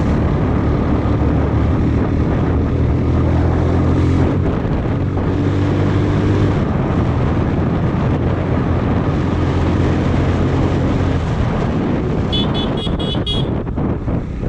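Motorcycle engine running under way, its note shifting a few times with the throttle. Near the end a horn sounds in a quick string of short beeps.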